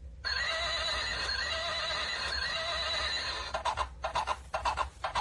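A FUNLIO plush hobby horse toy plays a recorded horse whinny through its small built-in speaker: one call of about three seconds with a wavering pitch. About three and a half seconds in it switches to its second sound, a rhythmic hoof clip-clop of about three to four beats a second.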